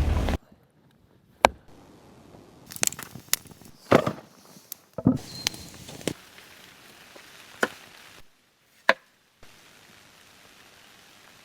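Irregular sharp chopping knocks from a blade striking, about eight separate strikes with soft rustling between them.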